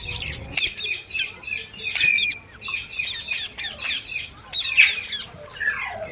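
Green parrot squawking, a rapid run of short, harsh calls and chirps, the loudest one a little past the middle.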